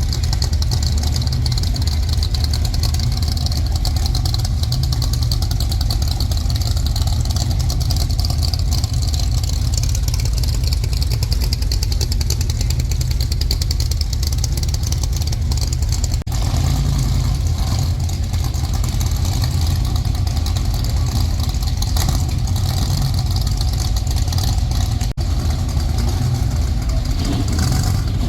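Car engines running at a cruise night, a steady deep rumble with some revving.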